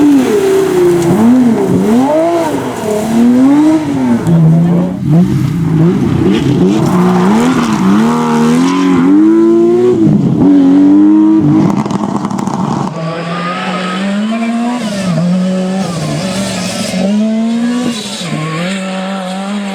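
Rally car engines revving hard, the pitch swooping up and down again and again with throttle and gear changes. About 13 s in, the sound changes to a quieter, steadier engine note that holds through the end.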